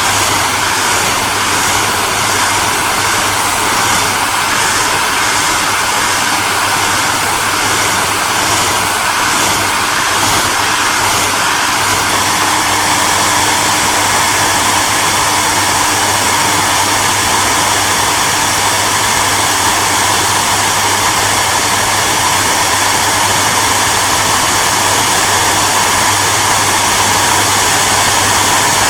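Electric hairdryer running steadily: an even rushing of blown air over a motor hum, with a faint pulsing in the high end for the first dozen seconds that then smooths out.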